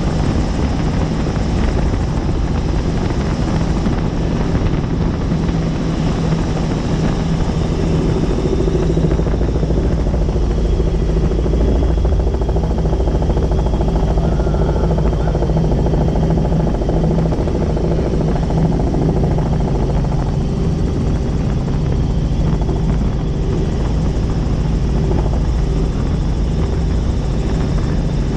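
Helicopter in flight: rotor and engine noise running steadily throughout, with a constant low hum.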